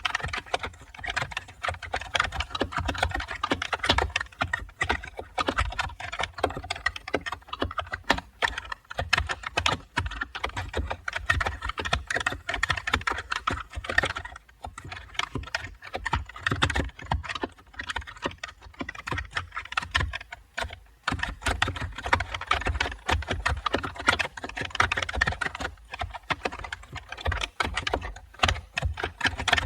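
Continuous fast typing on a computer keyboard: a dense, irregular stream of key clicks, pausing briefly now and then.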